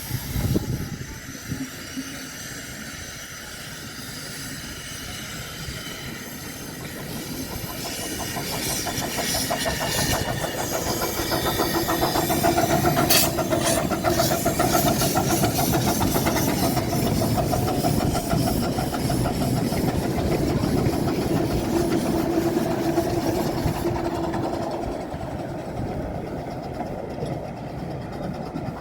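The No. 4 Norfolk Pioneer locomotive running on the line, growing louder over about ten seconds, passing loudest with a steady hum and a rapid rhythmic beat, then fading toward the end.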